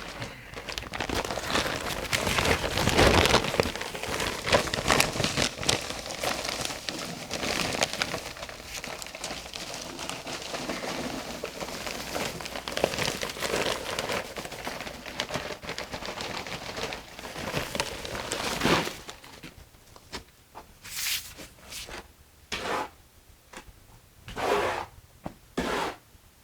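Mortar being mixed by hand, with more dry mix worked into a batch that came out too wet: a continuous gritty scraping and crinkling that breaks into separate short scrapes in the last several seconds.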